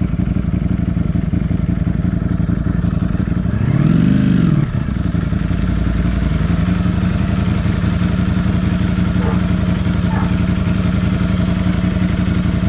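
Motorcycle engine running steadily on the move, with a brief rise and fall in revs about four seconds in.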